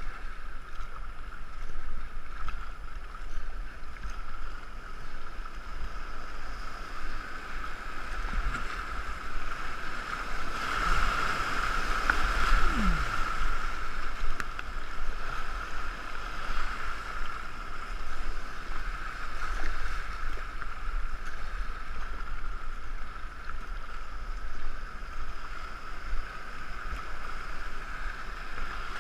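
Steady rush of river water around a racing canoe being paddled downriver, growing a little louder about eleven seconds in.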